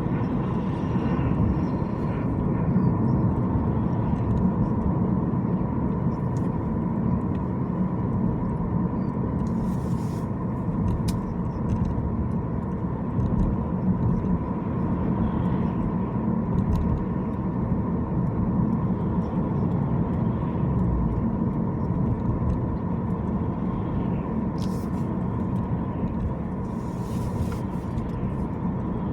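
Steady low road and engine noise of a car being driven, with a faint steady tone above it and a few light clicks.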